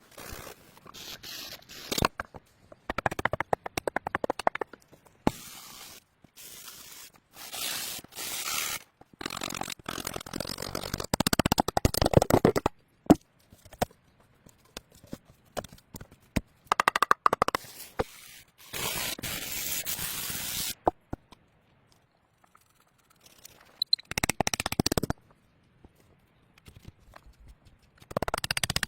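Scraping and crackling noises in many short separate bursts, each starting and stopping abruptly, with quiet gaps between them.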